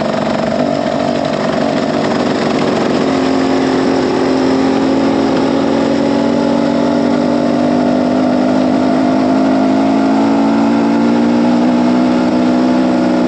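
Dirt bike engine running steadily at moderate revs, its pitch drifting slowly, with rushing wind noise behind it.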